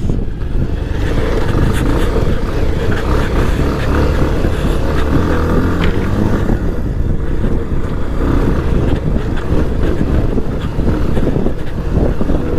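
Motorcycle engine running as the bike is ridden over a rough, muddy off-road track.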